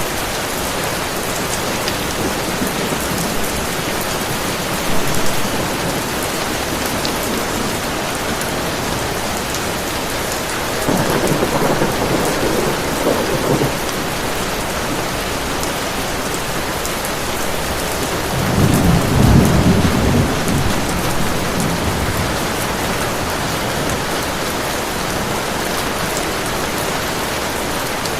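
Heavy rain falling steadily, with two rolls of thunder: one about eleven seconds in and a louder, deeper one about nineteen seconds in.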